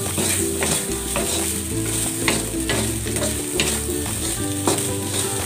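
Fried rice being stir-fried in a wok: spatulas scrape and clack against the metal pan every half second or so over the sizzle of the rice. Background music plays underneath.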